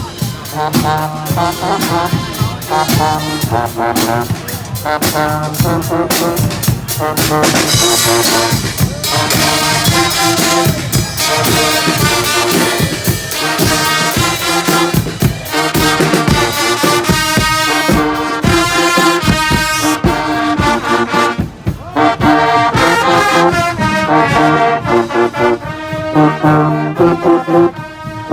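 Brass band playing a march, with trombones and trumpets carrying the tune over a steady beat.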